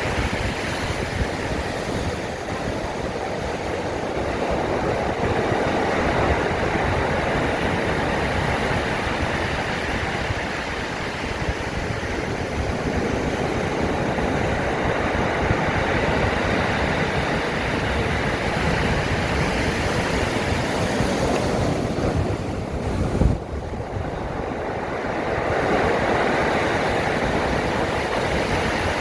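Stormy sea surf breaking and washing on the shore, with wind rushing over the microphone. A brief thump about three-quarters of the way through is the loudest moment.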